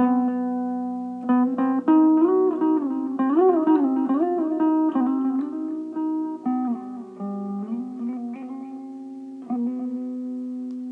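Electric mandolin playing a slow melody over a steady low drone, with notes sliding and bending in pitch. A last chord, struck about nine and a half seconds in, rings out as the music fades.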